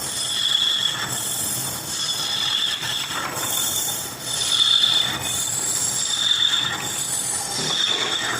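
Metal being machined, with a high-pitched tool squeal that swells and fades about once a second over a steady cutting hiss.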